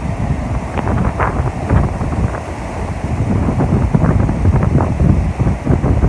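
Strong wind buffeting the microphone in a loud, uneven low rumble, over the noise of big waves.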